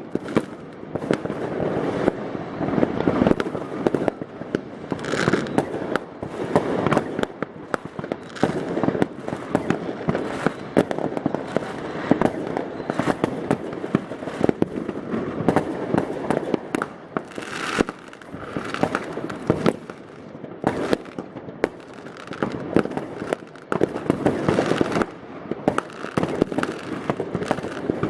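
New Year's Eve fireworks: a dense, unbroken barrage of firecracker bangs and rocket bursts from many directions, echoing between buildings, with occasional hissing streaks.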